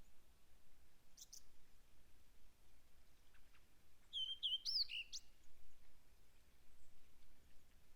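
Small songbirds calling: a brief high chirp about a second in, then a short phrase of quick, sweeping high notes around the middle, over a faint steady hiss.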